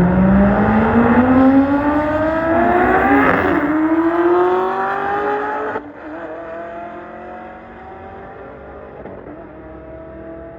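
A car engine at full throttle in a drag-race run, its pitch climbing steadily as the car accelerates. About six seconds in the sound drops off suddenly to a fainter engine that is still slowly rising in pitch.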